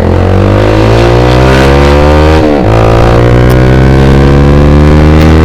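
Yamaha Vixion's single-cylinder four-stroke engine, through a short Proliner aftermarket exhaust, accelerating as the motorcycle pulls away. The pitch climbs steadily, drops briefly with an upshift about two and a half seconds in, then climbs again.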